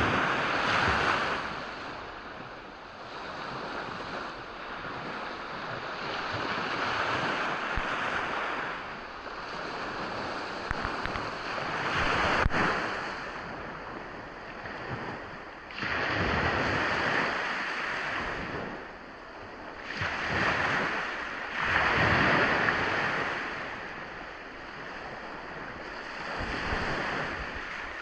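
Sea waves washing onto a beach, the surf swelling and fading every few seconds. A brief sharp click about twelve seconds in.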